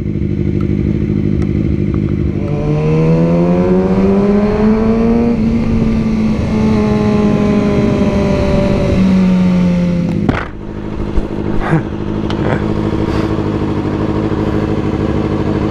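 Motorcycle engine pulling up through the revs, holding, then easing off with the pitch sliding down; near the middle there is a sudden dip and a sharp crack, after which it settles to a steady run under a constant rush of wind and road noise.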